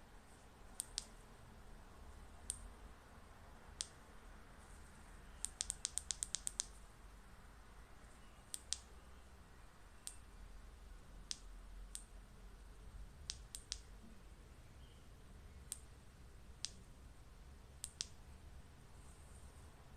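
Flashlight switch clicking: single and double clicks every second or two, with a quick run of about eight clicks a few seconds in, over a faint low hum.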